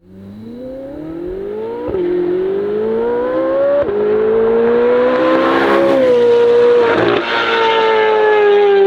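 C8 Corvette Z06's flat-plane-crank 5.5-litre V8 through an AWE exhaust, revving hard. It fades in, climbs in pitch through two quick upshifts about two and four seconds in, then holds at high revs with the pitch slowly sinking.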